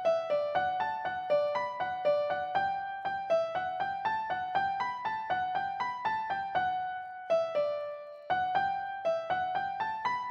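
Background music: a piano-like keyboard playing a steady run of single notes, pausing briefly about three-quarters of the way through.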